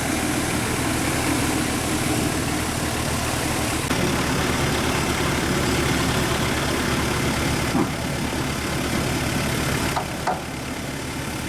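Off-road 4x4's engine idling steadily with an even low pulse. There are a couple of short knocks near the end, and the sound drops a little after them.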